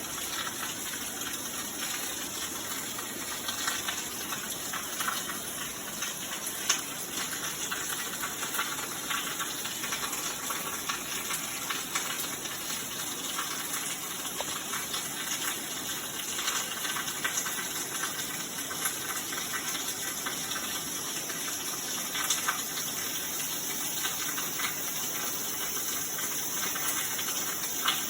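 Heavy rain pouring down in a steady, dense hiss, with a few sharper drop hits.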